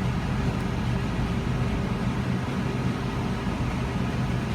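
Car engine running with a steady low hum, heard from inside the cabin along with an even background noise.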